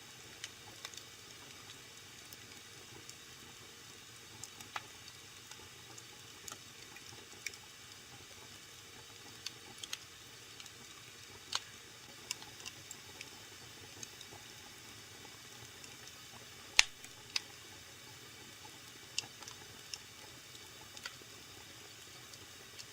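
Wood fire burning in a fireplace: a steady low hiss with scattered sharp crackles and pops, irregular, the loudest snap about two-thirds of the way through.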